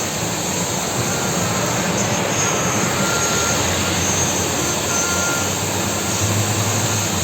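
Steady rush of heavy rain, with a low hum that swells about six seconds in.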